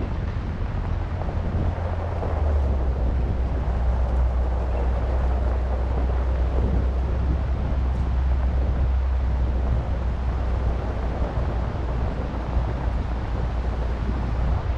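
Wind rushing over the camera microphone with a steady low rumble, which drops slightly in pitch about two seconds in.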